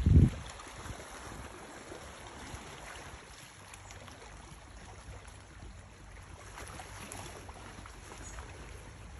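Steady seaside ambience of wind and lapping water, with one brief, loud low thump at the very start, like wind buffeting the microphone.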